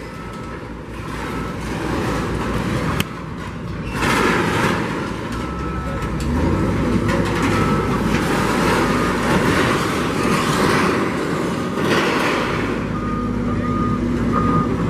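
Heavy demolition machinery running as it tears into a building, with noisy crashing of breaking structure swelling about four seconds in and again near twelve seconds, and a single sharp crack about three seconds in. A repeated beeping tone sounds near the end.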